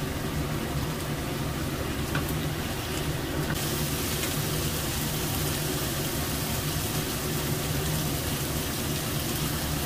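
Balado chilli sauce with eggs and tofu sizzling in a wok: a steady hiss with a low hum beneath, and a couple of faint clicks about two to three seconds in.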